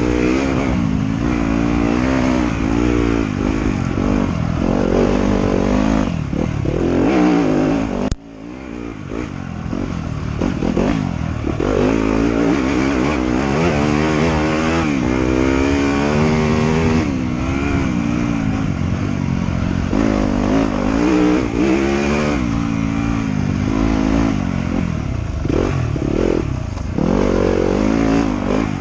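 Off-road motorcycle engine ridden along a trail, its pitch rising and falling as the throttle opens and closes. The sound drops off abruptly about eight seconds in, then builds back up.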